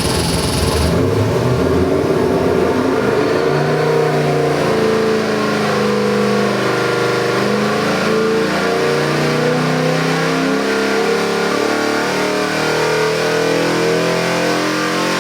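Ford 347 stroker small-block V8 running on an engine dyno, its engine speed rising and falling as the throttle is worked.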